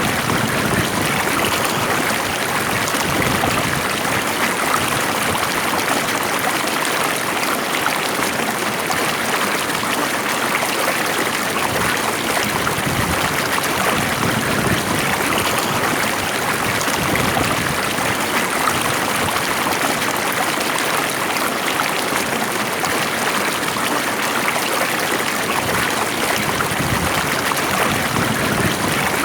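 Stream water flowing steadily, an even rushing and trickling with no change in level.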